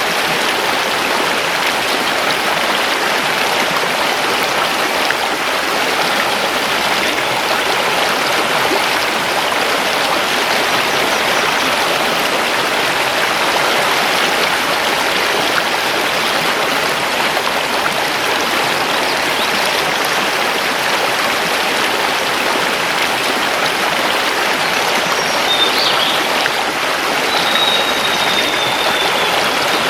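Mountain river rushing steadily over stones, an even splashing hiss. In the last few seconds a forest bird gives a couple of brief high calls, the last a short, slightly falling whistle.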